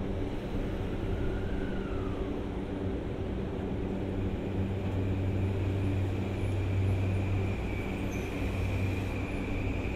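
Electric train running through the station: a steady low hum, with a thin high whine that comes in about four seconds in and holds.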